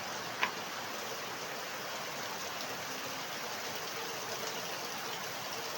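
Steady rain falling, an even hiss, with one brief sharp tick about half a second in.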